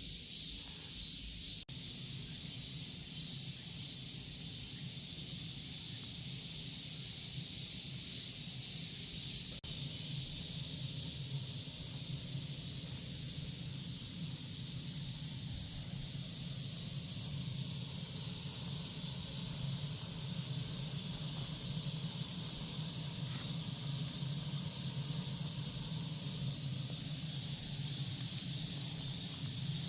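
Cicadas buzzing in a steady, dense high-pitched chorus, with a low steady hum underneath.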